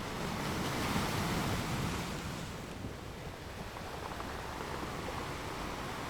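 Sea waves washing onto the shore, one swell rising about a second in, over a steady wash.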